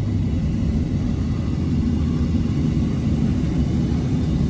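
Steady low rumble of a vehicle driving: engine and road noise heard from inside the cab.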